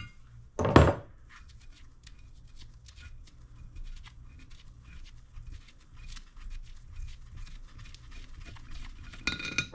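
Metal parts of a bench vise being handled during teardown: a single sharp clank about a second in, then light ticks and small scrapes, and a short burst of metallic clinks near the end.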